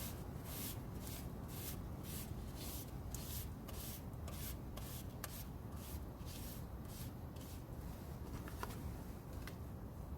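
Repeated rubbing or wiping strokes, about two a second, each a short brushing hiss, stopping about seven and a half seconds in; a couple of faint clicks follow.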